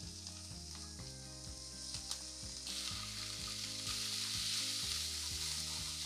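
Mixed vegetables (carrot, peas, cauliflower) sizzling in hot oil in a pan as they are tipped in and stirred with a spatula. The sizzle gets louder about three seconds in.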